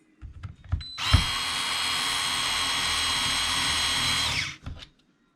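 Small handheld power driver running steadily for about three and a half seconds while driving in a diff cover screw, after a few light clicks of handling parts.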